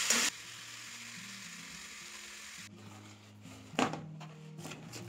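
Vegetables sizzling in an iron kadhai while being stirred with a steel spoon, cut off abruptly a fraction of a second in. After that, faint background music, with one sharp knock about four seconds in.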